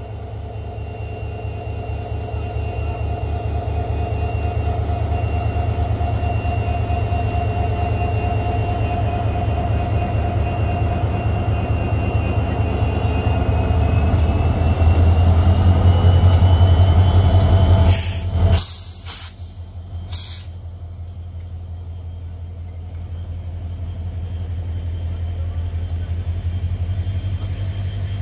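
Diesel locomotive passing close by as it pulls away: a steady engine drone with a deep hum and a rising whine, growing louder to a peak a little past halfway. A few short hisses follow, then the lower rumble of passenger coaches rolling by.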